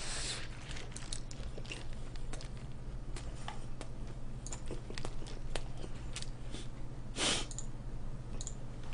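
Close-up chewing and biting on fast food, with scattered small mouth clicks and a short, louder rustle about seven seconds in.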